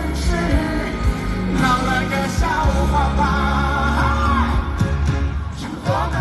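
Live pop concert music from a stadium: a band with heavy bass under a singer's wavering, drawn-out vocal line, with shouting mixed in.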